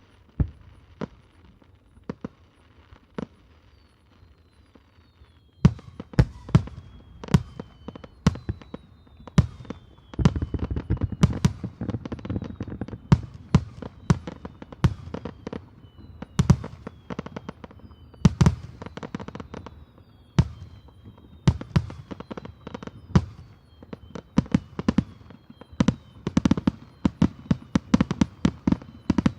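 Fireworks display: aerial shells bursting. A few scattered bangs come first, then rapid volleys of sharp bangs from about six seconds in, with high falling whistles over them.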